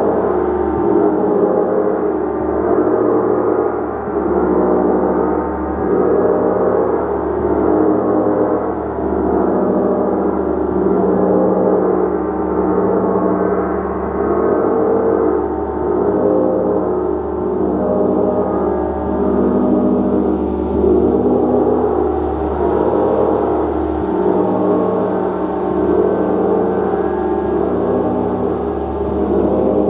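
A gong played continuously with repeated soft strokes: a dense, sustained wash of many overlapping tones that swells and eases every two seconds or so.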